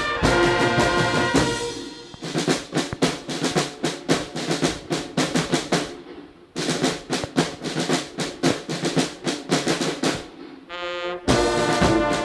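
Military band music: brass playing a march, dropping out about two seconds in to leave the snare drums playing alone. Near the end a single held note sounds, then the full band comes back in.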